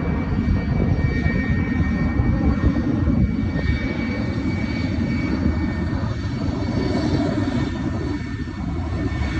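Sukhoi fighter jets' engines during an aerobatic display, a steady, deep rumble with faint high tones above it.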